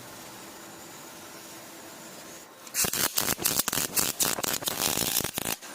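MIG (wire-feed) welding arc crackling in a quick run of irregular bursts for nearly three seconds, starting a little under three seconds in and stopping abruptly. Before it there is only a steady machine hum.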